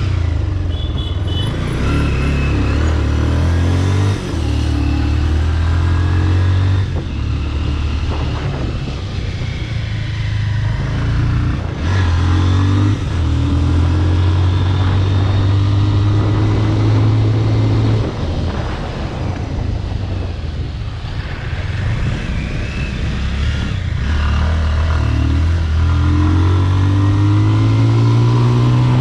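Bajaj Pulsar RS200's single-cylinder engine running through a modified aftermarket exhaust while riding. The engine note holds steady, drops away and comes back several times with throttle and gear changes, and rises near the end as the bike accelerates.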